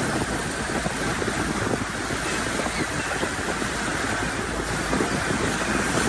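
Steady noise of a boat under way at trolling speed: its motor running, with wind on the microphone and water rushing past the hull.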